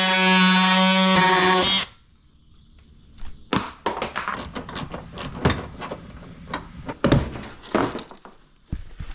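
Loud music with held notes that cuts off abruptly about two seconds in, followed by a run of irregular knocks, clicks and thunks.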